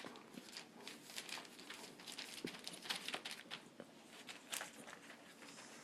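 Four-week-old golden retriever puppies playing and scuffling, a run of faint, irregular patters, scratches and rustles from their paws and bodies.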